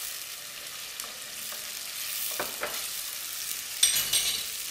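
Tomato sizzling as it fries in a pot, with a wooden spoon stirring it; a few light scrapes, and a louder scraping burst about four seconds in.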